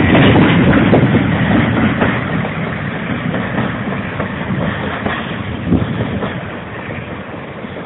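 Diesel-hauled train with class 47 locomotives running on the track, wheels clicking over the rails, the sound fading steadily as it moves away.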